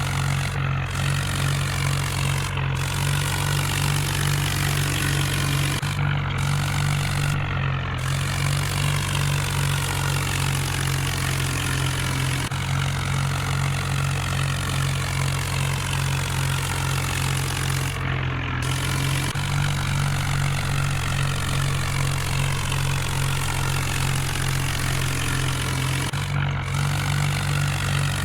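Tractor engine running steadily with a low, even hum, the sound breaking off and resuming abruptly a few times.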